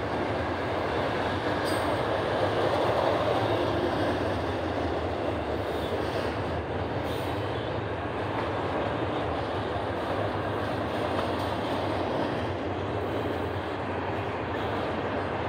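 Doublestack intermodal freight train's loaded well cars rolling past, a steady continuous noise of steel wheels on rail.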